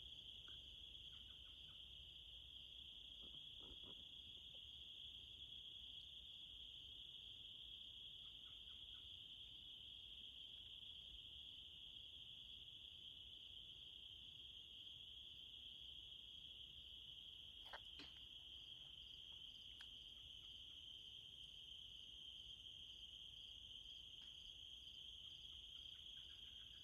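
Evening insect chorus: a faint, continuous high-pitched trilling drone. A few faint short bird chirps come through, and there is a single sharp click about 18 seconds in.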